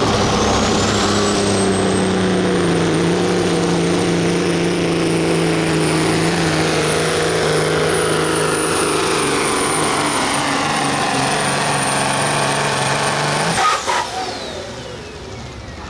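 Pro stock semi truck's diesel engine at full throttle under load, pulling the sled, with a high turbocharger whine that climbs over the first two seconds and then holds. About thirteen seconds in the throttle is cut: the engine drops away and the turbo whine winds down.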